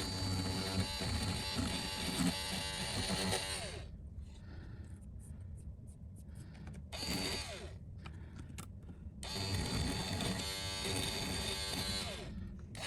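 Small handheld electric rotary tool, of the kind used to rub leftover adhesive off a phone's OLED panel, running in two spells of a few seconds each, with a brief spin in between. The pitch sweeps as the motor spins up and winds down.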